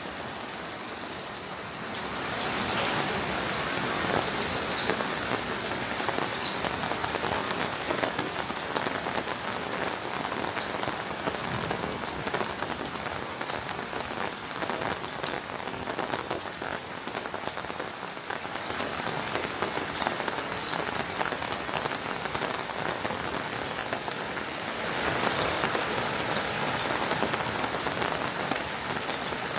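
Steady rain falling, with many individual drop ticks in a dense hiss; it grows heavier about two seconds in and again near the end.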